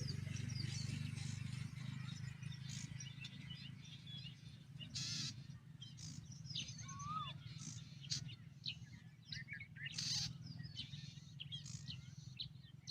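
Birds chirping: many short, high chirps and calls scattered throughout, over a steady low hum, with two brief rushes of noise about five and ten seconds in.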